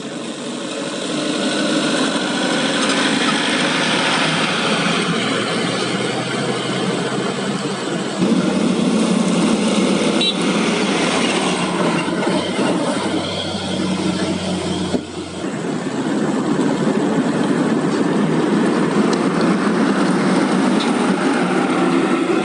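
Heavy diesel haul trucks running, a loud steady engine and road noise with no speech, briefly dipping about 15 seconds in.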